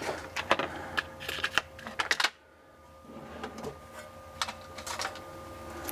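A run of sharp clicks and light metal knocks from tools being handled, likely drill bits being sorted and picked out. The sound drops away abruptly a little over two seconds in, and sparser, fainter clicks follow over a faint steady hum.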